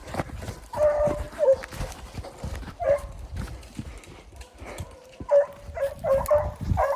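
Bear hounds baying on a bear's track, a series of drawn-out bawls that come thicker in the last couple of seconds, over steady low thumping footfalls.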